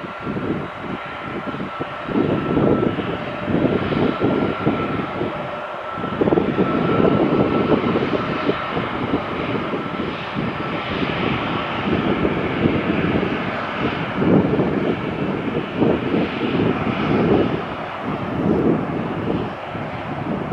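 Jet aircraft engines running with a steady high whine, under gusts of wind buffeting the microphone.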